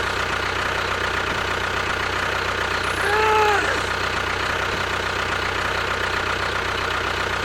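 A small motor running steadily, with a brief rising-and-falling voice-like cry about three seconds in.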